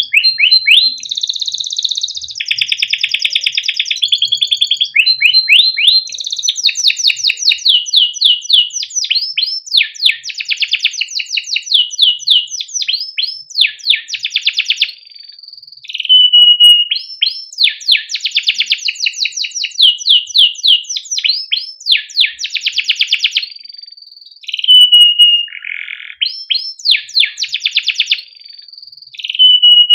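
Male domestic canary singing a long, loud song made of fast trills and rapidly repeated chirps, with a few brief pauses between phrases.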